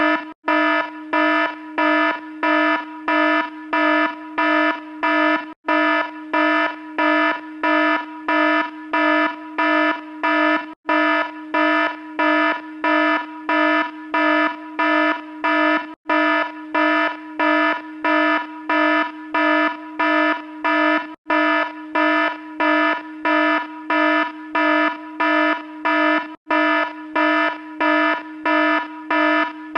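Electronic alarm buzzer sound effect sounding in a steady pulsing pattern, about two harsh, low buzzes a second. It breaks off for an instant about every five seconds where the short clip loops.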